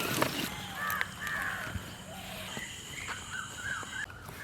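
Birds calling outdoors in a run of short, repeated calls.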